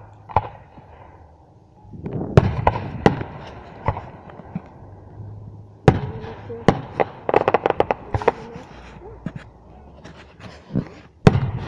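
Aerial firework shells bursting in a series of sharp bangs. A quick run of crackles comes in the middle, and another bang lands near the end.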